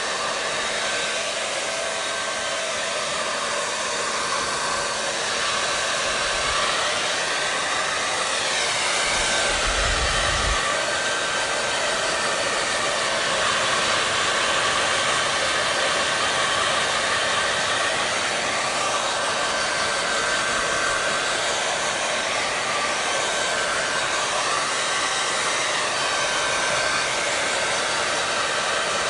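Hair dryer running steadily: a continuous rush of blown air with a steady whine and a low hum from its motor, the tone wavering gently now and then. A brief low rumble about ten seconds in.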